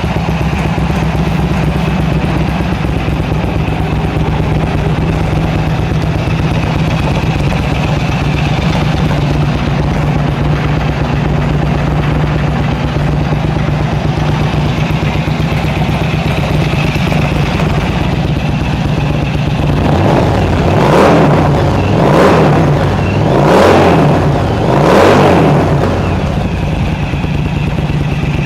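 1999 Yamaha XVS1100 V-Star's air-cooled V-twin idling steadily, then blipped four times in a row about twenty seconds in, each rev rising and falling back to idle.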